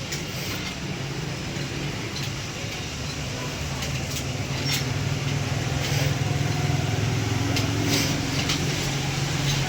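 Steady low motor hum that grows louder about four seconds in, with a few light clicks over it.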